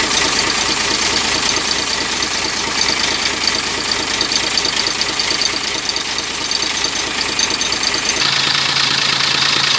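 Rebuilt truck diesel engine running at idle just after its first start following a top-end repair for coolant mixing into the oil. About eight seconds in the sound shifts to a steadier low hum.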